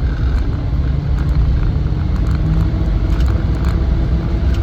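Cabin noise of a 1998 Land Rover Defender 90's 4.0-litre V8 driving on the road: a steady engine and road rumble, with the engine note rising a little in the second half as the vehicle pulls.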